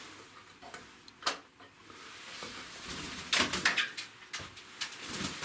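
Hard knocks and scraping, as of a hatch or fittings being handled: a sharp click about a second in, then a cluster of knocks and scrapes about halfway through and a few more after.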